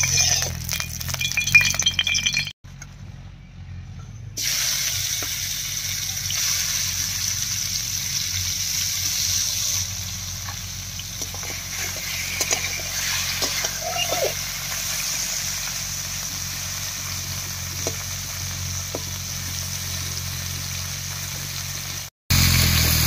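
Prawns frying in hot mustard oil in a karai: a steady sizzle. A metal spatula clicks against the pan, most of all in the first couple of seconds.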